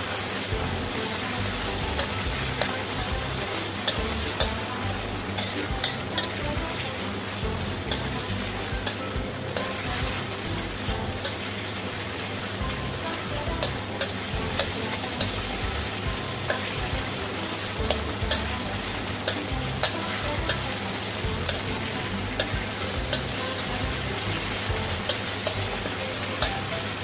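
Stir-fry ingredients sizzling in hot oil in a pan as they are stirred, a steady hiss broken by many sharp clicks.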